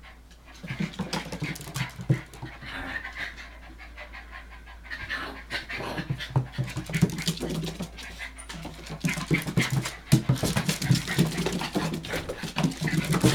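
Hokkaido dog puppies panting and moving about, with many small irregular clicks and knocks; the activity grows busier and louder from about halfway through.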